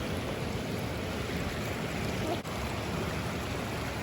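A small stream running: a steady rush of flowing water.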